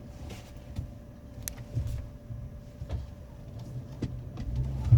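Chevy Avalanche pickup's engine running at low speed, heard inside the cab as it creeps through a tight manoeuvre, with scattered knocks and a loud thump near the end.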